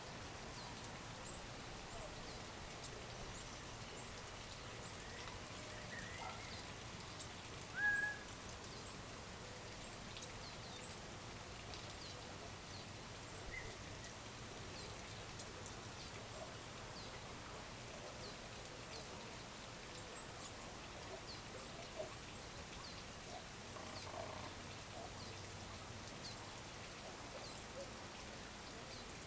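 Birds calling at dusk: many short, faint high chirps scattered throughout, with one louder call about eight seconds in, over a steady outdoor hiss.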